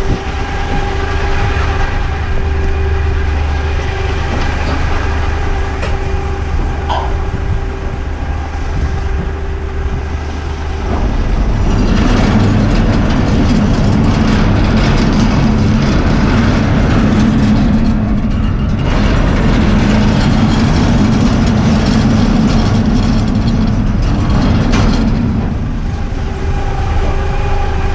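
Diesel engine of an eight-wheeler twin-steer heavy rigid truck running while driving. It grows louder and rougher about eleven seconds in, as under load, and eases back near the end.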